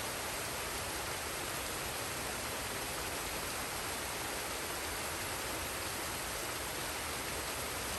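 Forest waterfall and stream: a steady, even rush of falling and running water.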